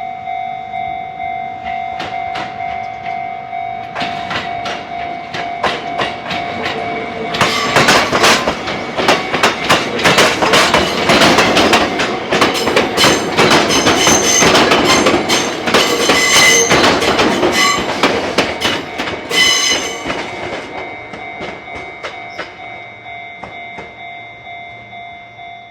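A railway level crossing warning bell dings over and over in a steady rhythm throughout. A Fujikyu train passes from about 7 seconds in to about 20 seconds, loud, with its wheels clacking over the rail joints. The train then fades away as the bell keeps ringing.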